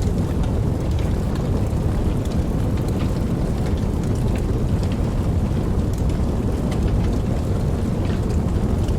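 Steady rain: a dense, even rush weighted toward the low end, with scattered sharp ticks of single drops.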